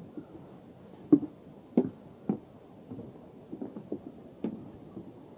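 Footsteps of hikers walking down the trail: irregular thuds, roughly one or two a second, the firmest about one and two seconds in.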